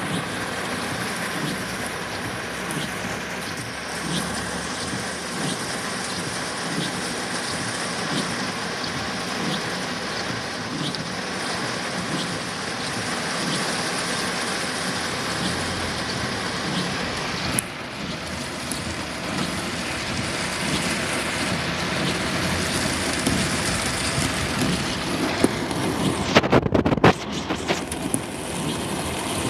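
Heavy downpour around a vehicle driving through a flooded road: a steady rushing wash of rain and water noise. A short knock comes a little past halfway, and a run of loud crackles comes near the end.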